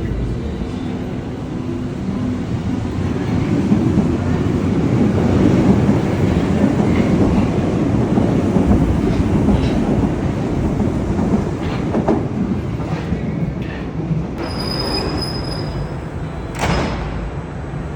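Electric city rail vehicle running on its track: a steady rumble that swells over several seconds and then eases off. Near the end there is a brief high-pitched tone, followed by a short sharp burst.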